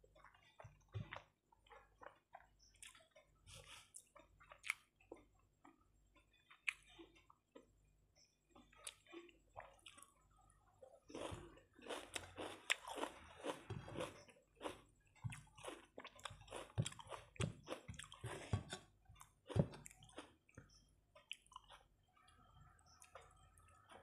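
Close chewing and wet mouth sounds of a person eating rice and fish curry by hand, with soft squishing as the rice is mixed on the plate. The sounds come thickest through the middle stretch and thin out toward the end.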